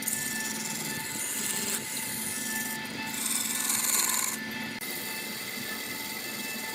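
A turning tool cutting a spinning wooden spindle on a running wood lathe, a steady scraping hiss of shavings coming off the wood; the cut gets louder from about three seconds in to about four and a half.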